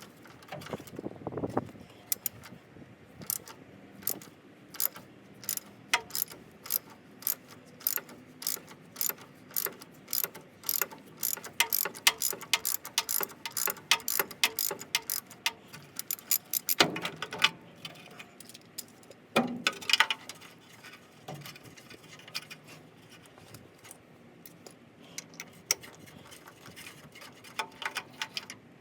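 Hand tools working on an old air-cooled VW engine: irregular runs of sharp metallic clicks, like a ratchet wrench, with two louder clanks later on.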